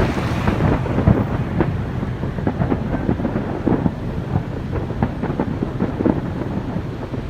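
Fireworks display, with many rapid overlapping bangs and crackles merging into a continuous rumbling barrage.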